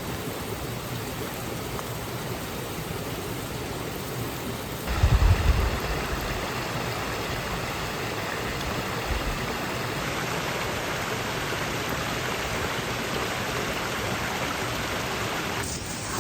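Mountain stream flowing, a steady rush of water. About five seconds in there is a short low thump, and the water sound turns brighter from there on.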